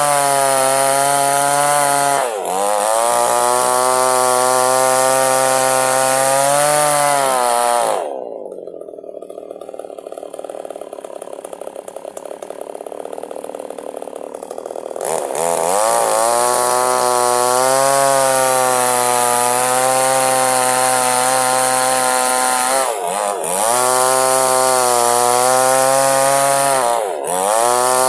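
Two-stroke chainsaw run at full throttle while cutting through wood, its pitch dipping briefly now and then. About eight seconds in it drops to a quieter idle for several seconds, then revs back up to full speed and carries on cutting.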